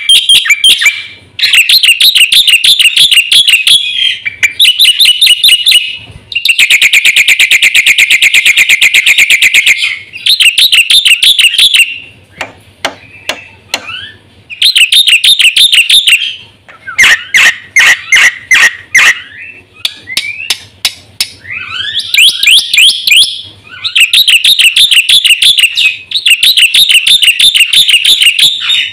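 Black-winged myna (jalak putih) singing loudly in rapid chattering phrases of repeated sharp notes, broken by short pauses, with a long fast trill about six seconds in.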